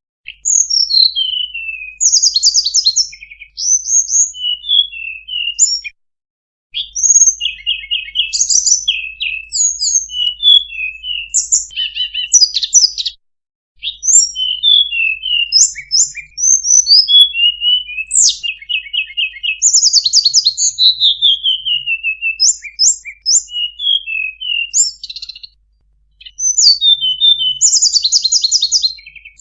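Tledekan (flowerpecker) calls played as a bird-lure recording: rapid high chips and short descending trills in quick succession, broken by three brief gaps.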